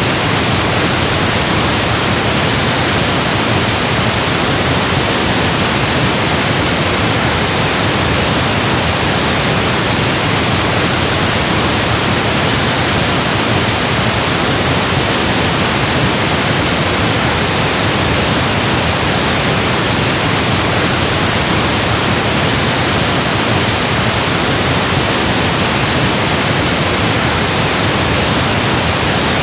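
Steady, unchanging pink noise, an even electronic hiss spread across all pitches.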